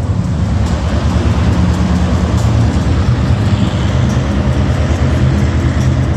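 A car engine running with a steady, rapid low rumble, over music.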